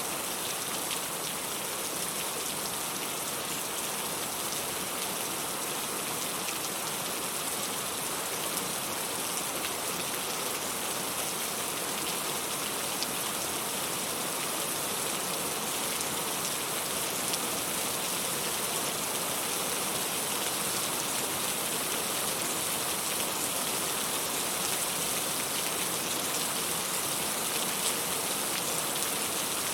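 Steady rain falling: an even hiss with the fine patter of individual drops, holding at the same level throughout.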